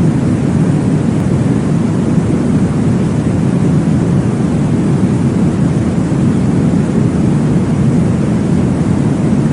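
Steady, deep whooshing noise of a baby-sleep white-noise track, weighted toward the low end, even throughout with no breaks or beat.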